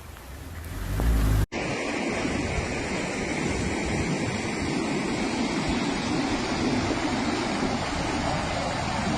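Steady rushing of swollen floodwater, an even noise without a rhythm; a low rumble rises at the start and is cut off sharply about a second and a half in, where the steady rush begins.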